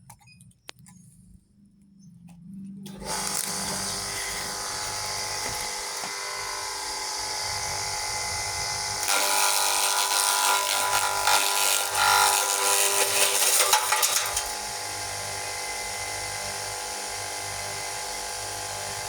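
Homemade livestock feed chopper driven by an electric jet-pump motor switched on: it spins up about two seconds in and runs with a steady whine. Midway it gets louder and rougher for about five seconds, then settles back to the steady whine.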